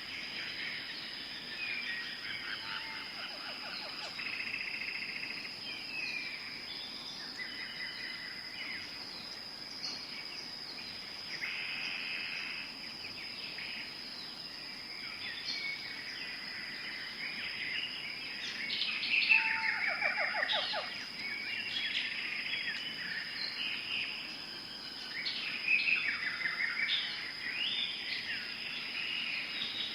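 Tropical forest ambience: many birds calling and trilling over one another, against a steady high-pitched insect tone. The loudest calls come about two-thirds of the way through, including a fast descending trill.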